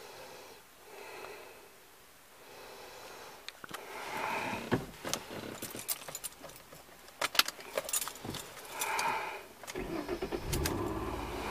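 Keys jangling and clicking, then a car engine starts about ten seconds in and settles into a steady idle.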